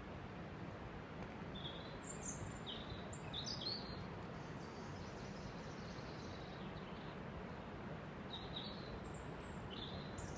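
Songbirds chirping in short high notes, a cluster of calls about two seconds in and another near the end, over a steady background noise.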